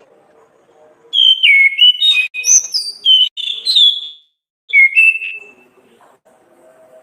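Orange-headed thrush (Anis kembang) singing loud whistled song phrases that glide up and down in pitch: a run of about three seconds starting about a second in, then a short phrase a little after four and a half seconds.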